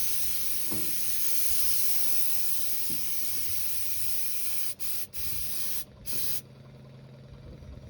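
Compressed-air paint spray gun hissing steadily as it sprays paint. It cuts off briefly twice about five seconds in, then gives a short burst and stops, leaving a low steady hum.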